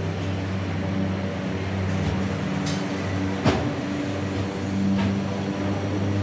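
Hopper wagons of a long freight train rolling past: a steady low drone from the wheels on the rails, with a few sharp clacks, the loudest about halfway through.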